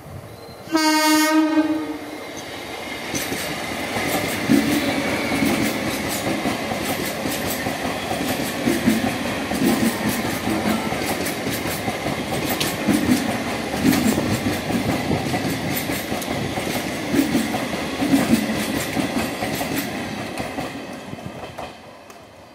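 RCF-built MEMU electric multiple unit sounding one short, loud horn blast about a second in. It then rumbles past at close range, wheels clicking over the rail joints with a steady clickety-clack, and the noise fades near the end as it draws away.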